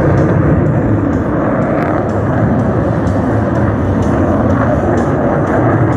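Blue Angels jet aircraft overhead, a loud steady engine noise.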